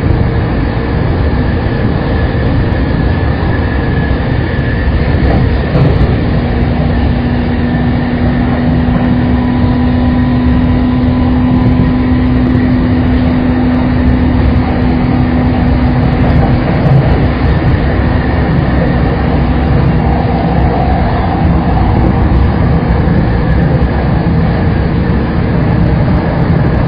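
Saikyo Line electric commuter train running at speed, heard from inside the car: a steady, continuous rumble of wheels on rail. A steady humming tone comes in about six seconds in and fades out around sixteen seconds.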